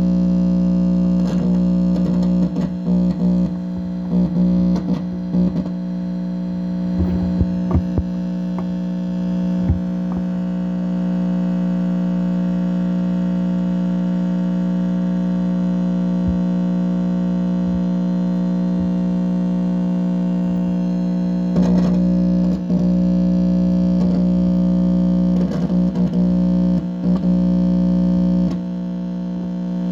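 Loud, steady electrical buzz coming out of an amplifier speaker, a hum with many evenly stacked overtones. Clusters of crackles and pops break through it in the first ten seconds and again from about twenty-one seconds in. The recorder takes the signal for directed-energy attacks picked up by his equipment.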